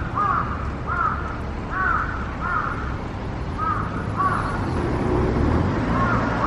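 A bird calling repeatedly: a run of short, arched calls about every half second, with a brief pause in the middle, over a low steady rumble.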